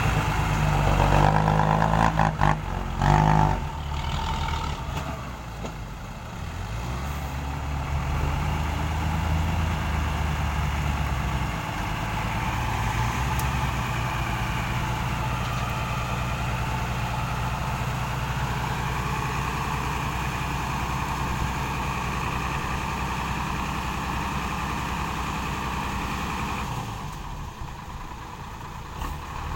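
Six-wheel diesel dump truck engine running steadily, with a few sharp knocks about two to three seconds in.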